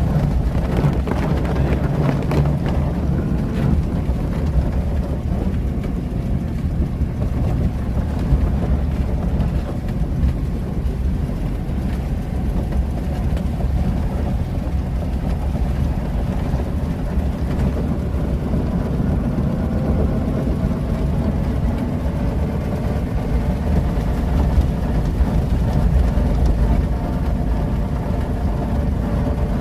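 A 1926 Chrysler coupe's engine running steadily as the car is driven, a low constant rumble.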